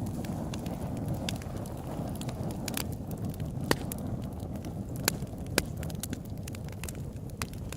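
Open-air campfire burning: a steady low rush from the flames with frequent sharp crackles and pops of burning wood, a few of them louder.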